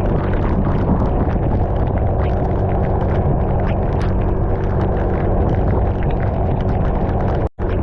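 Motorcycle on the move: a steady engine note under loud wind rushing over the microphone, with crackling all through. The sound drops out briefly near the end.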